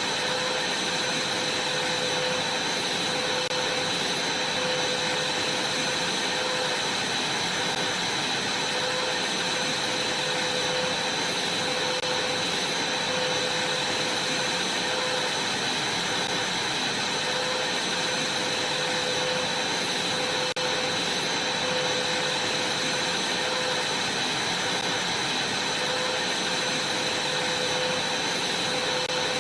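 Vacuum cleaner running steadily, a constant rush of air with a high whine and a fainter lower hum that drifts in and out.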